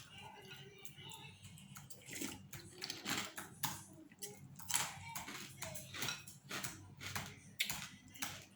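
Close-up eating sounds from a bowl of pork noodle soup: a run of quick slurps and chews, mixed with light clicks of utensils against the bowl.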